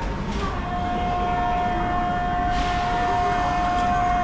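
A steady, single-pitched high squeal that starts about half a second in and holds, over a low rumble that slowly grows louder: a train's wheels or brakes squealing as it comes into the underground station.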